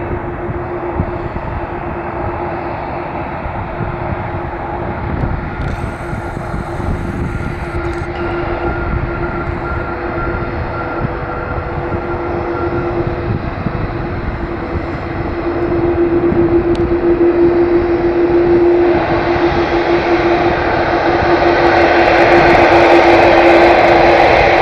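Boeing 787-8 Dreamliner's jet engines running with a steady whine, growing steadily louder over the last ten seconds.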